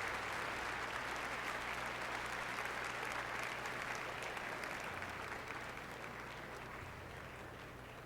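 Concert-hall audience applauding, the clapping thinning and dying away over the last few seconds.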